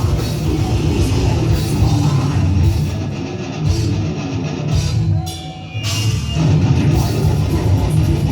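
Heavy metal band playing, with distorted guitars and a drum kit. The band thins out briefly about five seconds in, then comes back in full.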